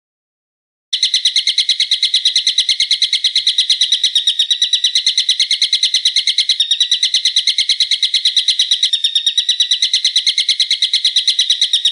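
A bird's high, rapid rattling trill: a steady stream of sharp notes at about ten a second, starting abruptly about a second in and running on unbroken.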